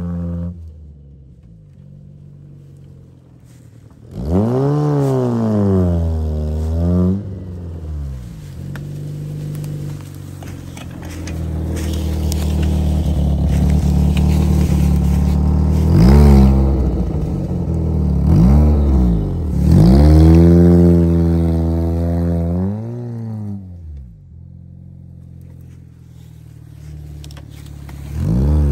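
Peugeot 106 hatchback's engine revving hard in repeated surges under load, its pitch rising and falling several times, dropping back to a quieter idle near the end, with one short blip right at the end.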